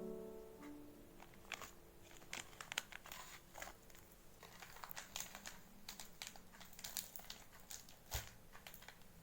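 Faint, irregular small clicks and crinkles of light objects being handled, several a second, as piano music fades out in the first second.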